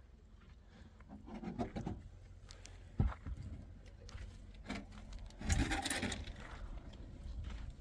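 Rubbing and scraping handling sounds, with a single sharp knock about three seconds in and a louder patch of scraping near the two-thirds mark.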